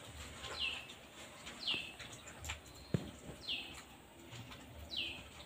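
A bird repeating a short, high chirp that falls in pitch, about once a second, over faint sounds of hands working rice batter in a steel bowl. A single sharp click comes about three seconds in.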